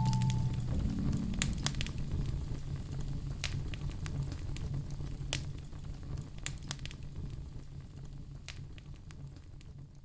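Fireplace fire crackling, irregular sharp pops over a low steady rumble, fading out steadily.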